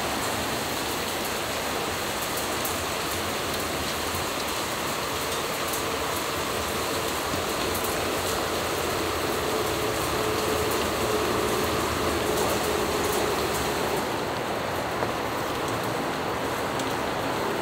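Steady rain falling on an outdoor table and balcony, an even hiss with faint ticks of drops. A faint steady hum joins for several seconds in the middle.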